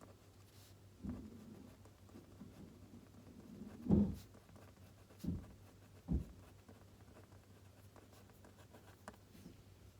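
Pen writing on paper at a desk, faint and scratchy, with four soft knocks on the desk. The knock about four seconds in is the loudest.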